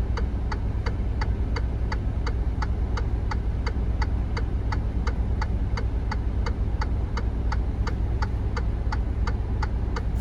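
Truck's indicator flasher clicking steadily, about three clicks a second, over the steady low idle of the 2020 Freightliner Cascadia's diesel engine, heard inside the cab.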